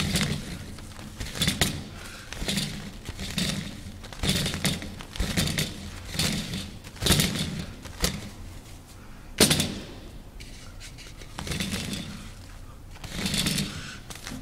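Toilet paper being pulled off a restroom roll and stuffed into a toilet bowl: a string of irregular rustles and knocks, roughly one every half second to a second, in a small echoing room.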